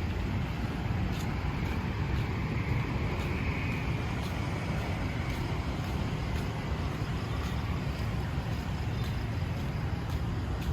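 Steady city street traffic, an even low rumble of passing vehicles.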